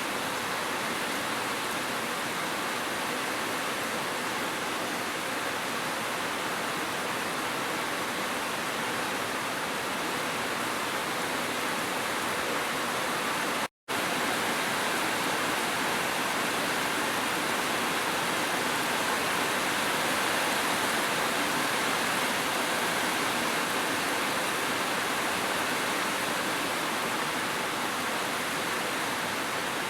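Steady rushing of a waterfall mixed with gentle rain, an even hiss of falling water. It cuts out to silence for a split second about halfway through.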